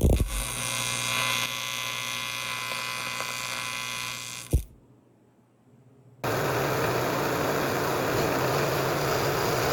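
A milling machine running steadily with a constant whine, ending in a single knock, then a short gap of near silence, then a steady, even rushing noise.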